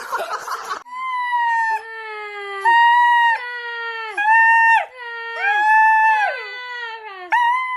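Dog howling in a series of long, steady notes, each falling in pitch at its end, with a second, lower howl overlapping from about two seconds in.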